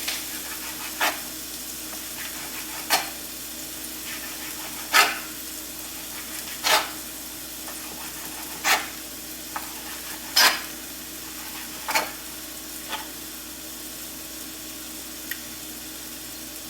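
Knife slicing raw steak into strips on a cutting board, a sharp knock every second or two as the blade hits the board, over the steady sizzle of bell peppers sautéing in a skillet.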